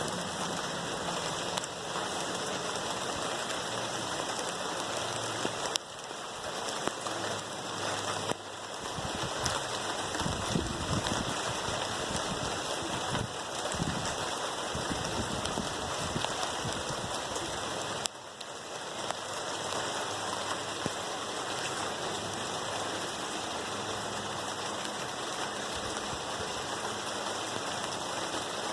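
Calm, steady rain falling on plant leaves, a constant hiss of drops with scattered individual drop ticks. Some low rumbling comes in the middle.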